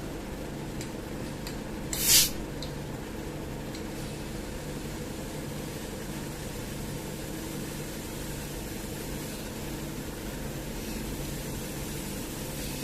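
Air conditioner running with a steady low hum. About two seconds in, a short, loud hiss of refrigerant gas escapes at the service valve, as when a charging hose is connected or purged for a Freon charge.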